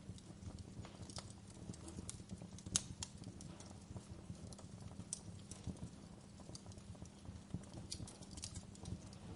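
Wood fire crackling in a fireplace: a steady low rumble of burning with irregular sharp pops and snaps, the loudest pop about three seconds in.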